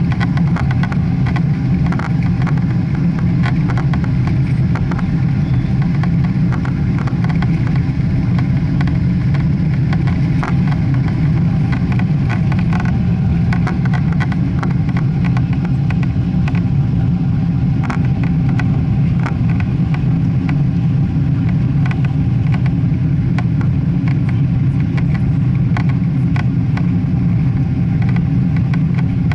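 Boeing 777 cabin noise: a loud, steady low rumble of the jet engines and airflow, heard from inside the passenger cabin. Many small clicks and rattles from the cabin fittings run through it.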